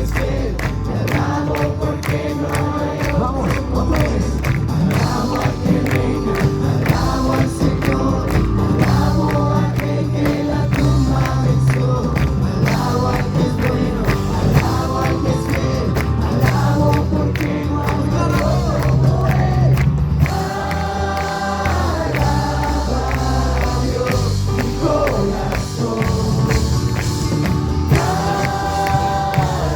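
A group of voices singing a song with band accompaniment: a steady drum beat and a strong bass line.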